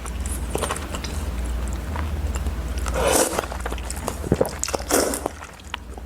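Close-up eating sounds: biting and chewing food, with many small mouth clicks and two louder noisy swells, one around the middle and one about five seconds in, over a steady low hum.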